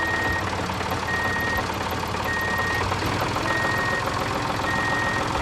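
A heavy vehicle's reversing alarm beeping at an even pace, five beeps about a second apart, over its engine running steadily.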